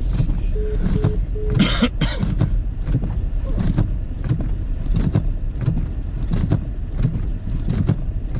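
Car cabin while driving over a snow-covered road: a steady low rumble from the engine and tyres, broken by frequent short knocks and crunches. About half a second in come three short beeps of the same pitch, then a louder rush of noise.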